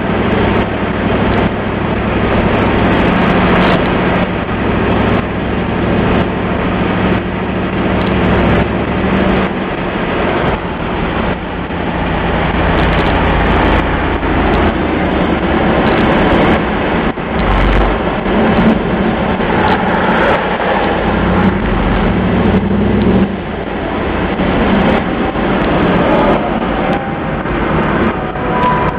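1996 Camaro Z28's LT1 V8 running through a Flowmaster exhaust. It holds steady for about the first nine seconds, then its pitch and level shift several times.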